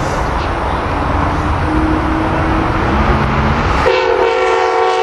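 Amtrak Keystone passenger train passing at speed with its cab car leading: a loud, steady rush of wheels and wind. About four seconds in, a train horn starts sounding a steady chord of several tones.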